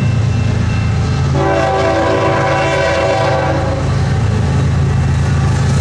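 Diesel freight locomotives of a CN train rumbling steadily as they approach, with the locomotive horn sounding one steady chord for about two seconds, starting about a second and a half in.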